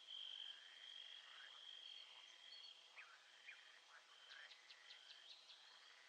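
Faint nature ambience: a steady high insect trill, with a few short chirps scattered through it.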